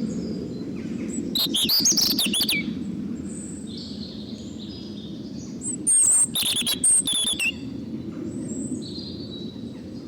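Robin singing in short bursts of quick high chirps and warbles, three phrases a few seconds apart, over a steady low background rumble.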